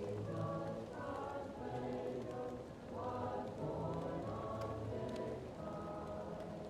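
Choir singing slow sustained chords, muffled as if from another room, over the scattered pops and crackles of a wood fire.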